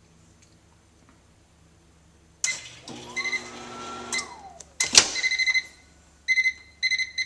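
A malfunctioning microwave oven beeping erratically. After a clunk it hums briefly while a whining tone rises and falls, then a sharp click is followed by quick runs of short high beeps that repeat in clusters.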